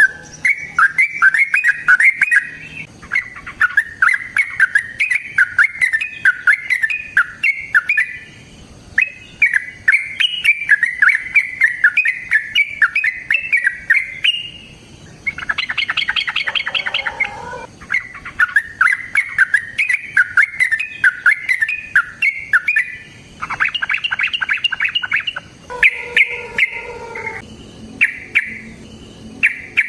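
A caged bird chattering in long, rapid runs of high notes with brief pauses, broken twice by a harsher, buzzier burst, once near the middle and once about two-thirds through.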